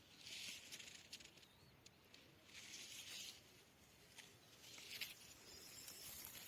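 Faint rustling in three short bursts, about a second each, with a few small crackles, like footsteps or hands brushing through dry grass and leaves; a few faint bird chirps are mixed in.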